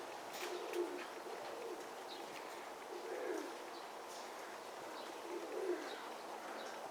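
Domestic pigeons cooing: a few low, wavering coos a couple of seconds apart, with faint chirps of small birds behind.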